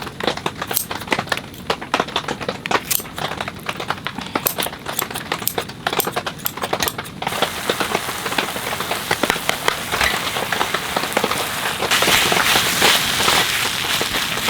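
Rain on a tent or tarp: scattered, irregular drop taps at first, then from about seven seconds a steady rain hiss that grows heavier near the end.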